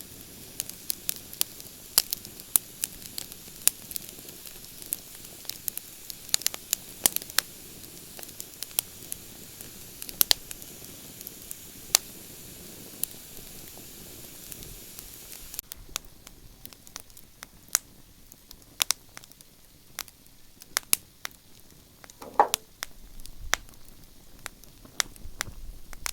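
Wood campfire crackling: sharp pops and snaps over a steady hiss. The hiss drops away about two-thirds of the way through, leaving the scattered pops standing out.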